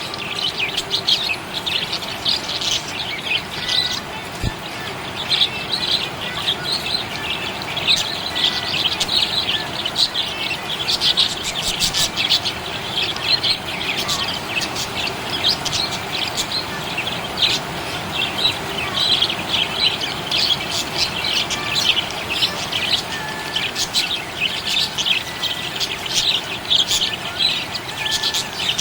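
Pet budgerigars chirping continuously, a dense run of quick, high chirps with an occasional squawk.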